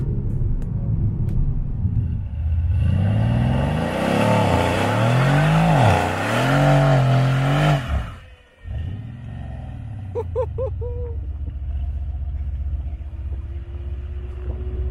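Mercedes-AMG C63 S twin-turbo V8 rumbling, then revved hard up and down and held high during a burnout, with the hiss of spinning tyres over it. This cuts off sharply about eight seconds in, leaving a lower engine rumble.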